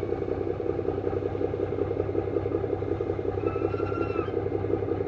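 An old truck's engine running steadily with an even, fast pulsing beat. A short, faint whistling tone comes in about three and a half seconds in.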